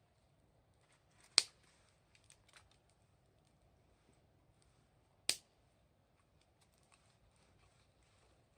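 Wood fire crackling faintly, with two sharp pops about four seconds apart and a few smaller crackles after the first.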